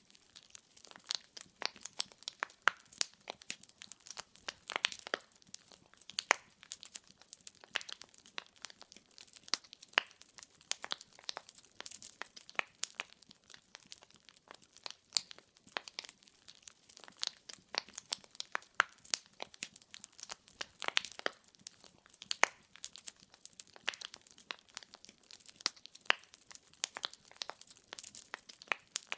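Wood logs burning in a fireplace, crackling and popping in quick, irregular snaps over a faint hiss.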